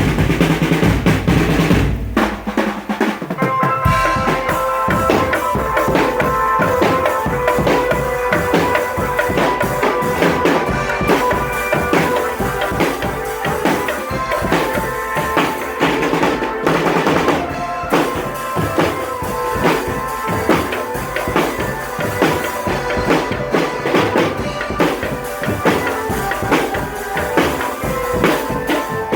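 Marching drum band playing: snare and bass drums beating a dense, steady rhythm, with a melody of held notes joining in about four seconds in.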